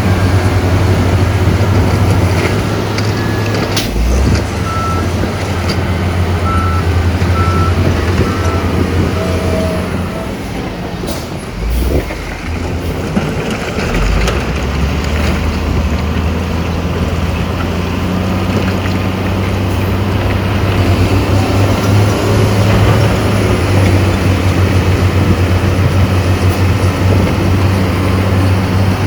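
Heavy diesel earthmoving machinery running hard, a deep steady engine drone, with a short run of high reversing beeps several seconds in. Near the middle the engine briefly drops away with a sharp burst, then builds again.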